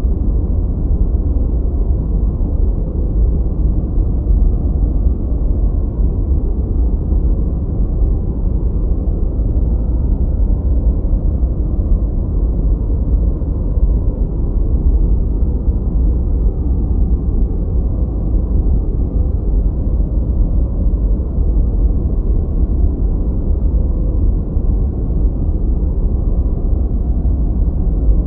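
Continuous generated masking noise, steady and unchanging: deep and muffled, with almost nothing high, closer to brown noise than to bright white noise.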